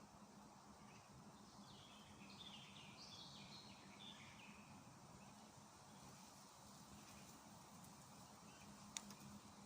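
Faint songbird singing: a quick jumble of high chirps and twitters lasting about three seconds, starting a second or two in, with a few isolated faint chirps later. A single sharp click near the end.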